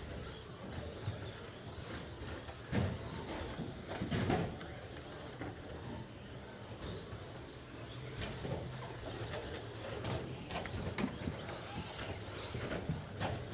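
Electric RC short-course trucks racing, their motors whining faintly up and down over a steady noisy background. A couple of louder thumps come about three and four seconds in.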